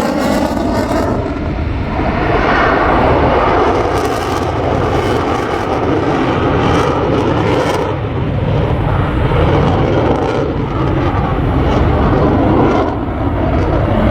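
F-35 Lightning II's Pratt & Whitney F135 jet engine roaring loudly and steadily in flight overhead.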